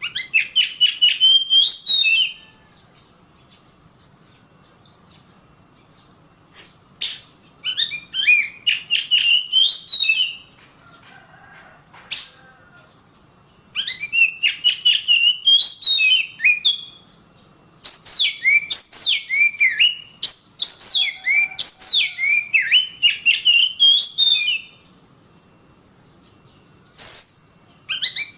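Oriental magpie-robin (kacer) singing in five bursts of rapid, varied whistles and sharp notes with short pauses between. Faint steady high-pitched tones run underneath.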